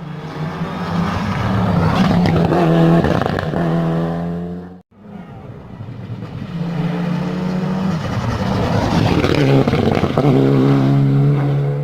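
Race car engines at high revs as cars are driven hard past, rising to a peak and fading. The sound cuts off abruptly about five seconds in, and a second car's engine builds up and passes.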